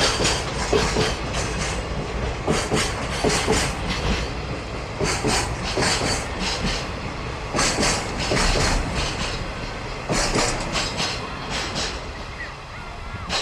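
Freight train wagons rolling past, their wheels clattering over rail joints in clusters about every two and a half seconds over a steady rumble. The clatter stops about a second before the end.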